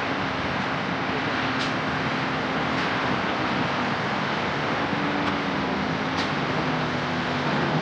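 Heavy diesel engine of earthmoving machinery running steadily under load, its pitch wavering slightly, with a few faint short high clicks or squeaks.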